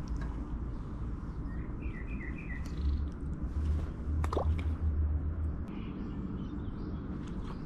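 A small bird chirping: a quick run of about four short high chirps about two seconds in, over a low steady outdoor rumble.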